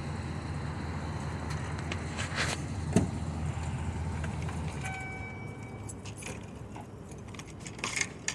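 A vehicle engine idling low and steady, dying away about halfway through, with scattered metallic clinks and jingling like keys and a brief chime-like tone as the engine stops.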